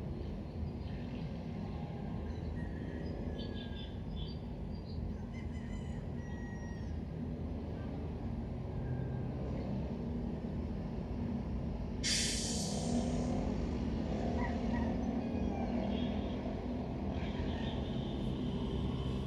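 Outdoor street ambience: a steady rumble of traffic with birds chirping in the first part, and a sudden sharp hiss about twelve seconds in.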